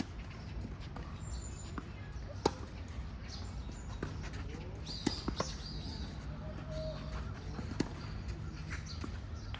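Tennis rally: sharp pops of the ball struck by rackets and bouncing on the court, four of them spaced a few seconds apart, over a steady low background hum.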